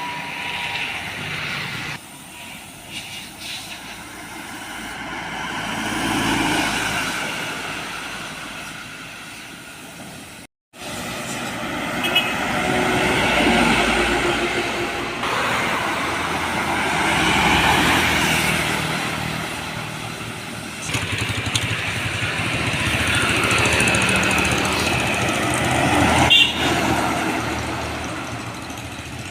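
Large road vehicles, trucks and buses, driving past one after another, each pass swelling and fading, with a brief break in the sound about ten seconds in.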